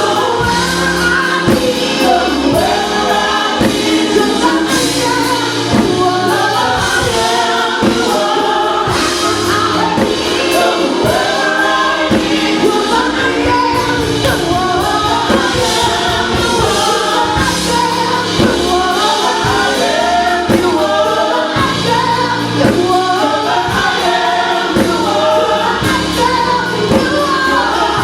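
Gospel choir singing a worship song over a band with bass and a steady beat.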